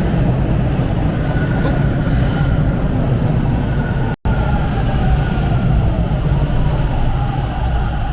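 Subway train moving along the platform: a loud steady rumble with a faint high whine over it. The sound cuts out for an instant about four seconds in.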